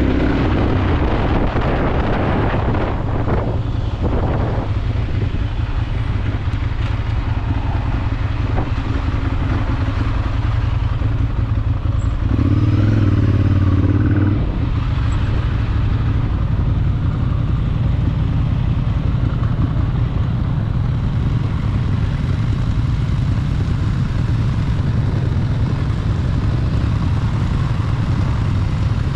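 Ducati Monster 796 motorcycle's air-cooled L-twin engine running steadily while riding, louder for about two seconds near the middle as it is opened up.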